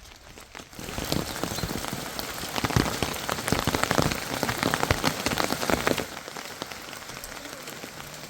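Rain falling, a dense patter of drops that turns heavier about a second in and eases off about six seconds in.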